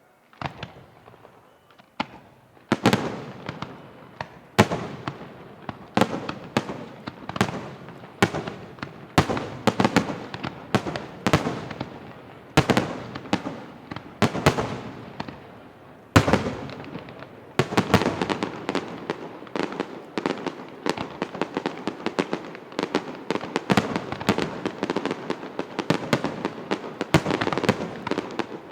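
Large aerial firework shells bursting one after another, each a sharp bang with a rumbling tail. A few faint bursts come first, then louder ones a second or two apart, and from about two-thirds of the way in the bursts overlap into a near-continuous barrage.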